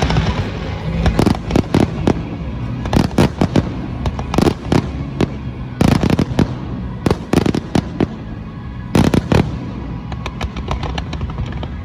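Fireworks display: aerial shells bursting in irregular clusters of sharp bangs, several in quick succession, over a steady rumble and crackle.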